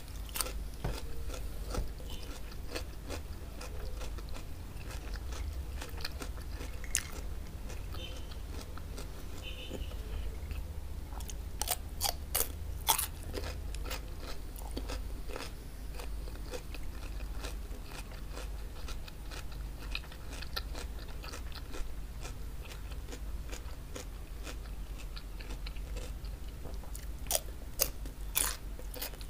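Close-miked crunching bites of raw cucumber and wet chewing, with clusters of sharp crunches about twelve seconds in and again near the end. A steady low hum runs underneath.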